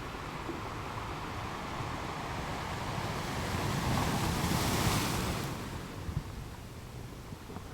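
Ocean surf: a wave builds, breaks with a hissing wash about four to five seconds in, then draws back.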